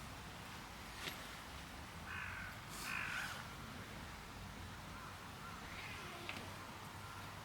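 Crow cawing, two loud caws about two and three seconds in and a fainter one near six seconds, with a single sharp click about a second in.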